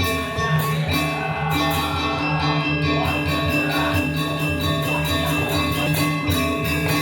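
Balinese gamelan ensemble playing for the Barong dance: ringing metallic struck notes in a steady, fast rhythm over low sustained tones.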